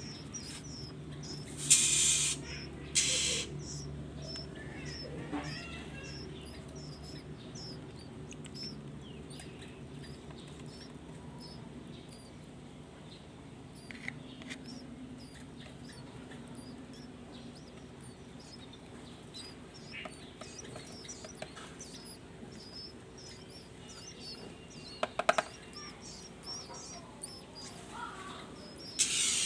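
Songbirds chirping: short high chirps repeated about twice a second, broken by two brief loud noisy bursts a couple of seconds in and another at the end.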